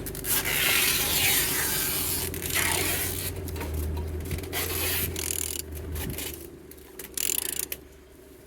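Mercedes-Benz OM646 four-cylinder diesel engine being turned over by hand with a wrench on the crankshaft, giving a rubbing, scraping mechanical noise that swells and fades. It turns freely, with compression on all cylinders.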